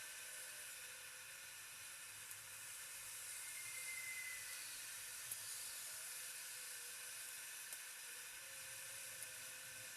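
Faint steady hiss, with a few light clicks and a brief faint whistle-like tone a few seconds in.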